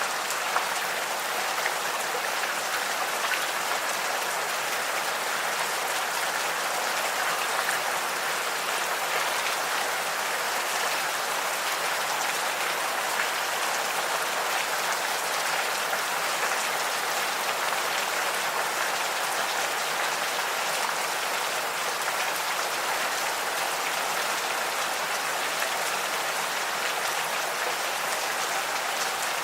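Gentle rain falling steadily, with scattered individual drops ticking.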